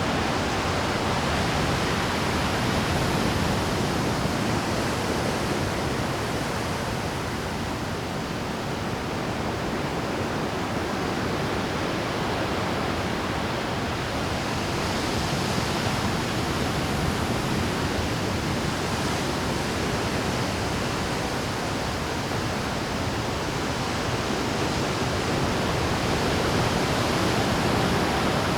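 Pacific surf breaking and washing over a rocky shore at high tide: a continuous dense rushing roar that swells and eases gently, with no single wave standing out.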